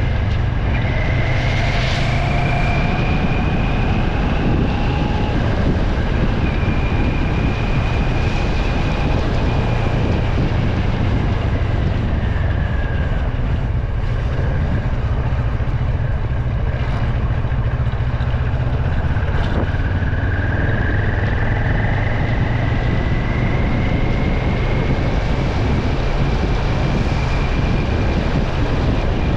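Car driving on a wet road: a steady low drone of engine and road noise under a hiss of tyres on wet tarmac, with a faint whine that slowly rises and falls in pitch several times.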